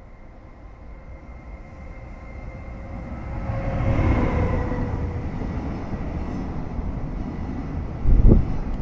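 An EF210 electric locomotive hauling a container freight train approaches, growing louder with a steady whine, and passes about four seconds in. The rumble and clatter of container wagons going by at speed follows, with a brief loud buffet of wind on the microphone near the end.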